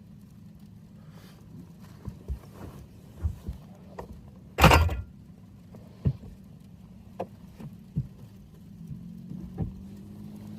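Objects being handled at close range: a string of short knocks and clicks over a steady low hum, with one much louder, noisy clatter about halfway through.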